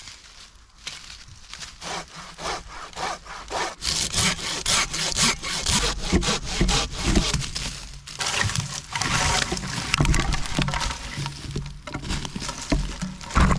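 Hand saw cutting through wood in quick, rhythmic back-and-forth strokes, with a brief pause about eight seconds in.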